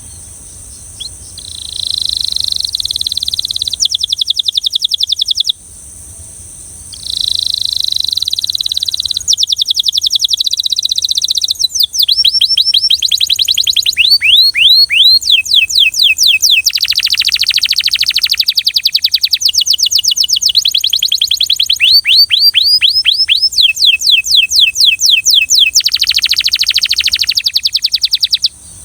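Belgian canary singing in phrases of rapid trills and rolls of quickly repeated notes, broken by a pause of about a second and a half. After the pause come faster runs of quick downward-sweeping notes. A faint steady hiss lies under the song.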